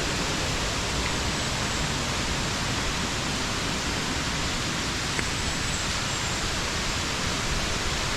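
Small waterfall rushing into its pool: a steady, dense roar of falling water that does not change.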